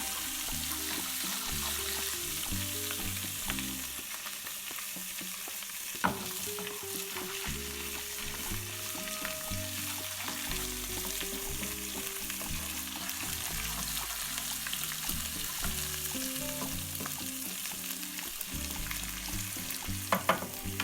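Crushed garlic and ground coriander sizzling as they fry in a pan, being stirred while they go a little red. There is a sharp knock about six seconds in and a few more near the end.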